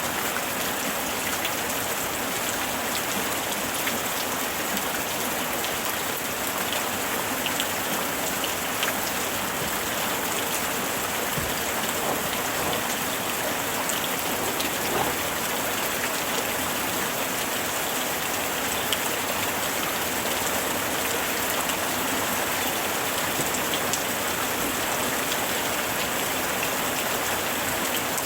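Steady summer rain falling on surfaces: an even wash of rain with scattered individual drop ticks.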